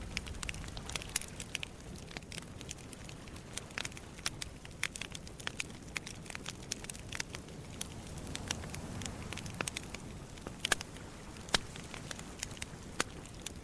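Wood campfire crackling, with irregular sharp pops and snaps, some louder than the rest. Under the crackle runs a low, even wash of sea waves on the shore, swelling a little about eight seconds in.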